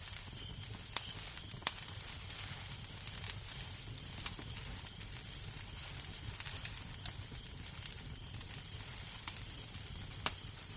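Wood fire crackling in a fireplace: a steady hiss with scattered sharp snaps and a few louder pops, over a low rumble.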